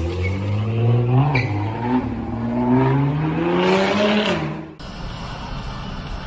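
Car engine accelerating hard, its pitch climbing, dropping back about a second in, then climbing again before easing off. About five seconds in it cuts abruptly to steady road and traffic noise.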